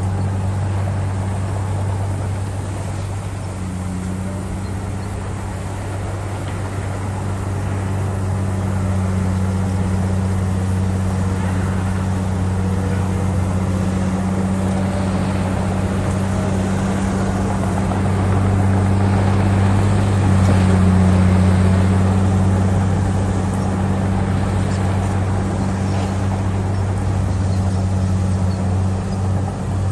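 Heavy earthmoving machine's diesel engine running steadily under load, getting somewhat louder about two thirds of the way through.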